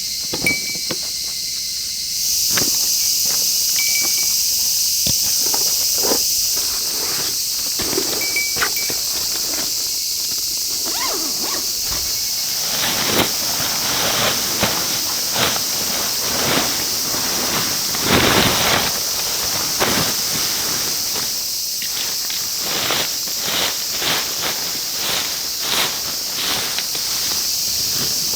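Outdoor ambience: a steady high hiss with a few short high chirps early on. From about halfway in, a dense run of irregular crunches and clicks.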